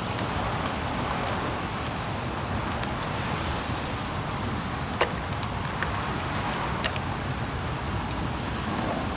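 Skateboard clacking sharply twice, about five and seven seconds in, over a steady hiss.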